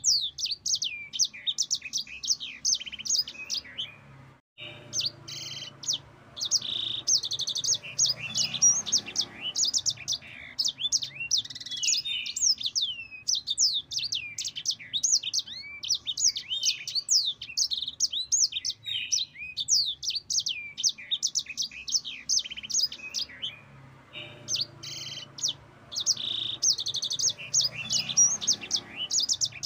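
Yellow-fronted canary (sanger) singing a long, rapid rolling song of high twittering notes and trills, with a brief break about four seconds in.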